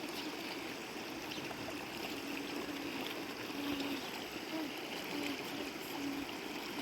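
River water flowing steadily, an even rushing with a little trickling.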